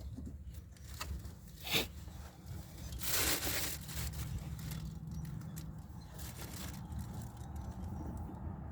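Hands working on parts under a truck's dashboard: a sharp click a little under two seconds in, then a brief scraping rustle about a second later, over a steady low hum.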